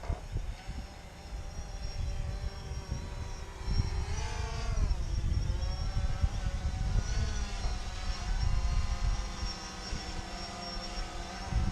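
Quadcopter drone's propellers whining, their pitch swinging up and down with a marked rise and fall about four seconds in, over wind rumbling on the microphone.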